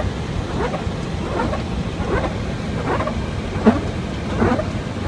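Boeing 737-800 windshield wipers sweeping fast in rain, about one stroke every three quarters of a second, over the steady rumble of airflow and engines in the cockpit on final approach.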